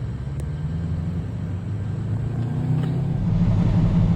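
Cummins ISX diesel of a Peterbilt 379 truck running with a low rumble. It gets louder about three seconds in.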